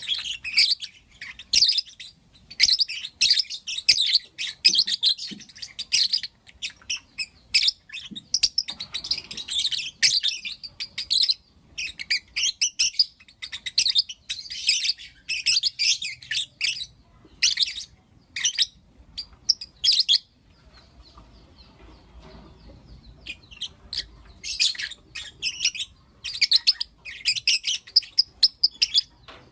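Lovebirds chirping and calling in rapid, shrill bursts. The chirping pauses briefly about two-thirds of the way through, then starts again.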